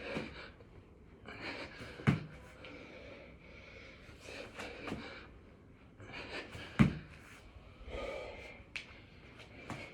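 Hard, gasping breathing of a man doing six-count burpees, with a sharp thump on the floor every two to three seconds as each rep lands.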